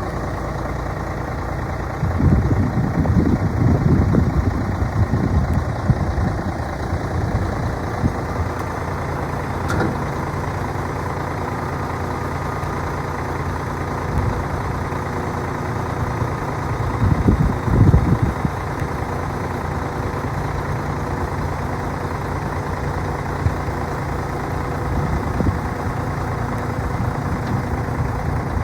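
Diesel engine of a 2007 Mack Granite dump truck idling steadily, with louder low surges about two seconds in and again past the halfway point.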